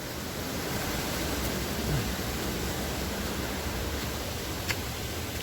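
Steady rushing of river water flowing over rocks, an even noise. There is a faint click near the end.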